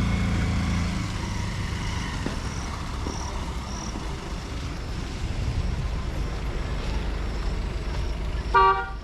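Road traffic rumbling steadily, with a vehicle engine fading away in the first second. A single short horn honk near the end is the loudest sound.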